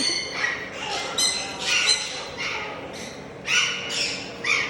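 Parrots squawking: a quick run of short, harsh, high-pitched calls, about three a second.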